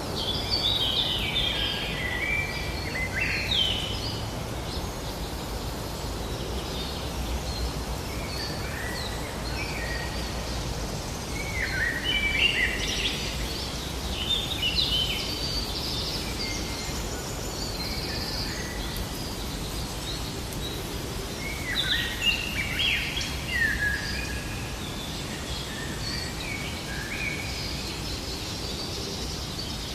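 Birdsong: three bursts of quick, high chirping phrases, near the start, about twelve seconds in and about twenty-two seconds in, over a steady low outdoor background noise.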